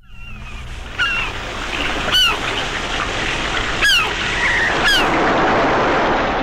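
Birds calling over a steady rushing background noise that fades in at the start. There are four clear short cries, each falling in pitch, at uneven intervals.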